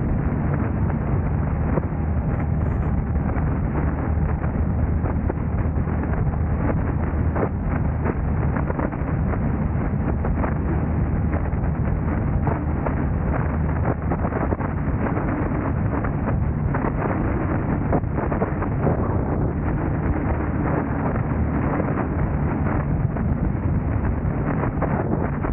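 A car being driven: steady road and engine noise with a low drone, buffeted by wind on the microphone and dotted with many small ticks and rattles. The low drone fades out near the end while the road noise carries on.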